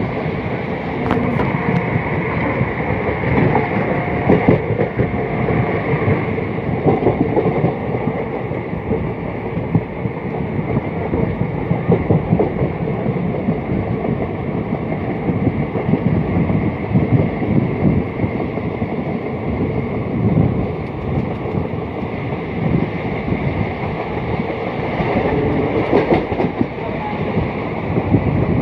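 Indian Railways passenger train running at speed: a steady rumble with the clatter of wheels on the rails.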